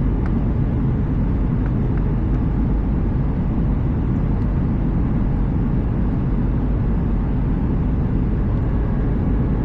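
Steady cabin noise inside an Airbus A320: an even, low rumble of engines and airflow heard through the fuselage.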